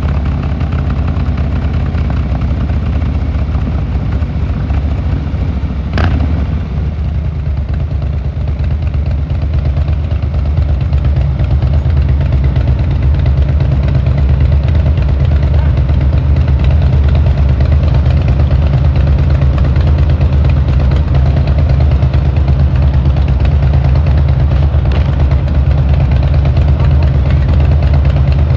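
Harley-Davidson Fat Boy Lo's V-twin engine running steadily, with a sharp click about six seconds in, then getting a little louder.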